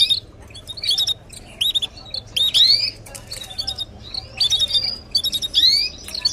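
Canaries chirping: short clusters of quick, rising high-pitched notes, repeated about once or twice a second.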